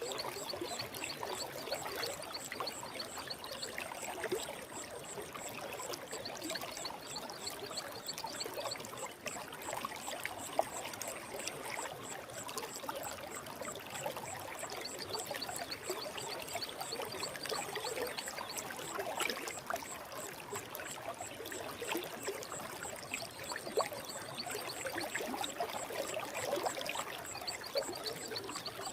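Forest stream flowing steadily with a trickling, splashing texture. Over it run a faint steady high-pitched tone and a rapid high trill that comes and goes.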